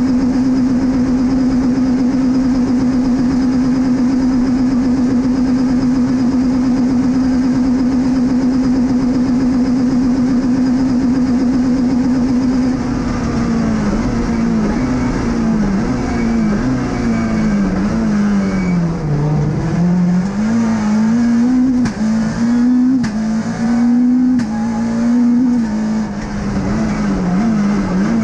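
Peugeot 206 F2000 rally car's engine heard from inside the cabin, held at steady high revs for about thirteen seconds, then rising and falling in pitch again and again, and dropping away near the end.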